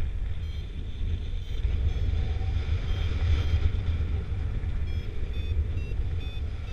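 Wind rushing over the microphone in flight, with an electronic flight variometer beeping in short chirps about twice a second, its pitch shifting from beep to beep: the vario's climb tone in lift.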